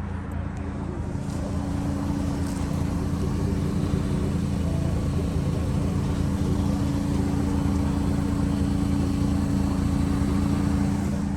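Subaru Sambar truck's supercharged 660 cc four-cylinder engine running under way, a steady hum with road noise. It grows a little louder over the first few seconds, then holds steady.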